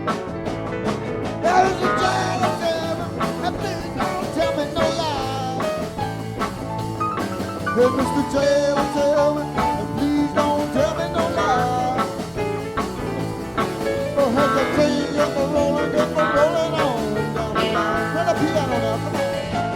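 Live rock band playing an instrumental stretch of a bluesy shuffle: guitars, bass, keyboards, drums and pedal steel guitar, with lead lines that bend and slide in pitch over a steady beat.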